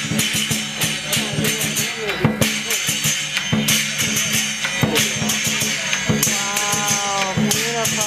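Chinese lion dance percussion: a drum beating steadily with cymbals clashing rapidly over it and low ringing tones underneath.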